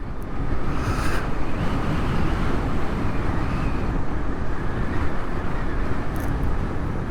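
Wind rushing past the rider's helmet while riding a Harley-Davidson LiveWire electric motorcycle at road speed: a steady, loud rush with no engine sound under it, only the electric bike's very quiet milk-float-like background hum.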